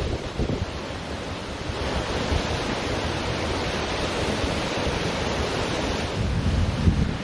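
Ocean surf washing onto a beach, a wave's wash swelling about two seconds in, with wind buffeting the microphone in low gusts.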